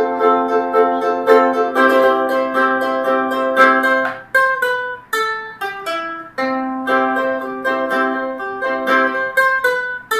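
Ukulele strummed in quick down-up chords for about four seconds, then single notes plucked one after another: the song's intro riff.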